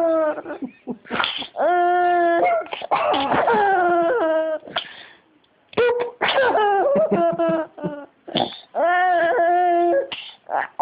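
Silly high-pitched vocal noises: about four drawn-out, wavering wails, several of them begun with a sharp, breathy, sneeze-like burst, with short pauses between them.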